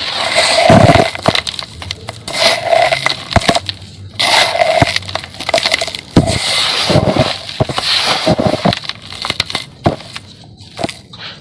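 Dry sand-and-cement chunks being crumbled, crunching and crackling in about five bursts a second or two apart, dying down near the end.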